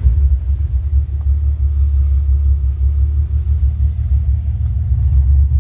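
Nissan Fairlady Z (S30) with a swapped-in L28 2.8-litre straight-six idling: a low, even rumble. The engine is new, about 700 km in and not yet broken in.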